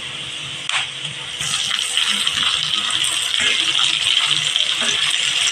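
Chopped capsicum and onion frying in hot oil in a kadai: a steady sizzling hiss that grows louder about a second and a half in, after one light knock of a utensil on the pan.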